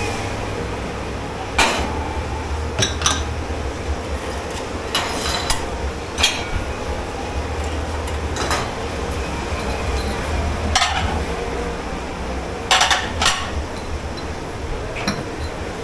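Dishes, pots and cutlery clattering and clinking at irregular moments, about a dozen knocks and rattles, some in quick pairs, over a steady low machine hum.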